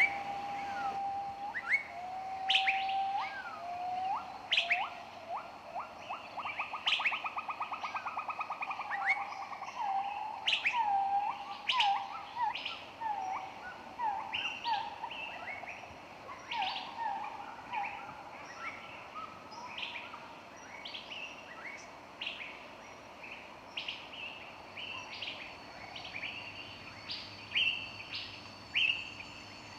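Several birds chirping and whistling, with short rising and falling notes and a fast trill about a third of the way through; the calls are busier in the first two-thirds and sparser near the end.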